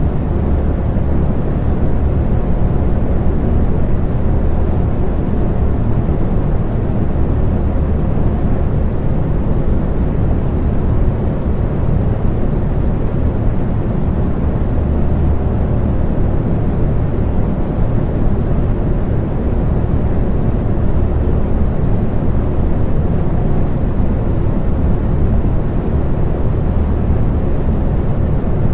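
Electric fan running steadily: a deep, even rush of air with a faint steady hum, unchanging throughout.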